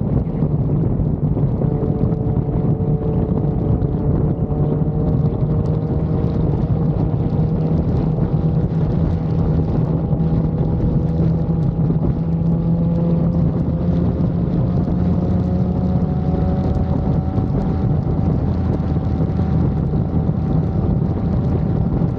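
Motorcycle engine running steadily under light throttle, its pitch climbing slowly, with wind noise on the microphone.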